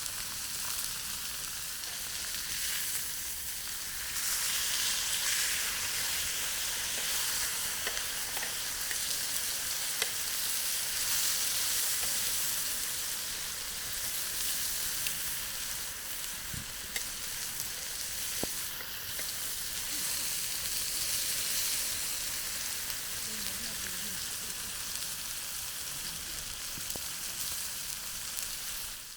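Chicken frying in a pan over a campfire: a steady sizzling hiss with a few faint ticks.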